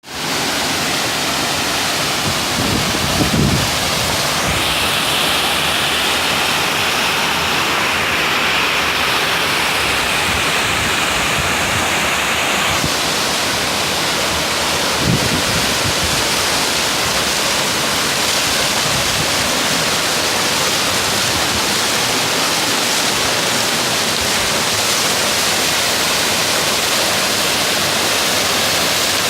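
Waterfall's steady, loud rush of falling water, with two brief low thumps about 3 and 15 seconds in.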